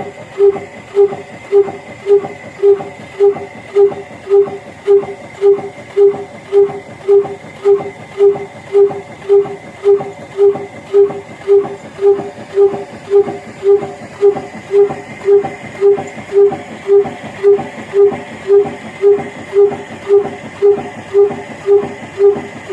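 Old slow-speed single-cylinder 'black engine' running steadily, with an even beat of about two exhaust strokes a second. A faint steady high whine sits under the beats.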